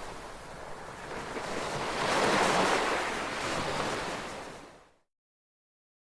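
Ocean waves washing on a shore: a swell of surf about two seconds in, then fading away and cutting to complete silence near the end.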